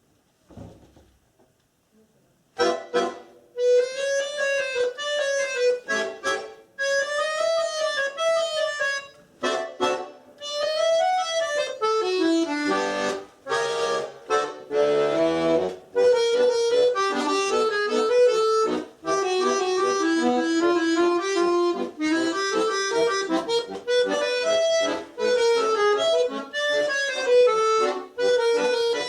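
Solo accordion playing, starting after a short silent pause about two and a half seconds in.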